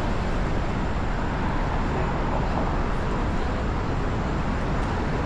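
Steady city street traffic noise, a continuous low-heavy rumble of passing vehicles.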